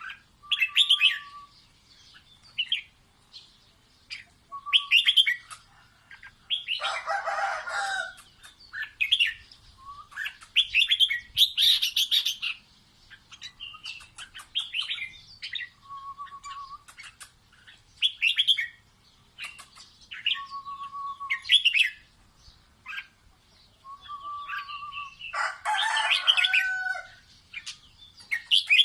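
Red-whiskered bulbul singing: a run of short, bright chirping phrases, several ending in a brief level whistle, with a harsher, longer call at about seven seconds in and again near the end.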